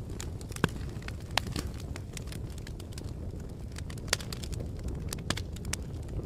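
Fire crackling: a steady low rumble of flames with irregular sharp pops and snaps, a few of them louder.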